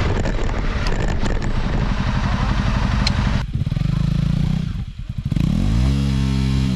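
Motorcycle engine running under load, with rattling and clatter over rough ground for the first three seconds or so. The engine note then turns steadier, dips briefly, and the revs rise near the end.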